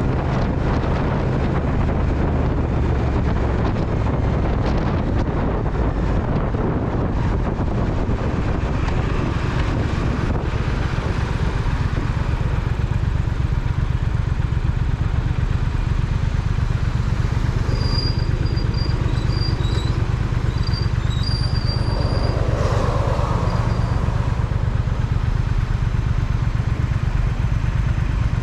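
Triumph Speed Twin's parallel-twin engine running steadily, with wind rushing over the microphone in the first part. In the second half the engine settles into an even pulsing, and a few short high chirps come about two-thirds of the way in.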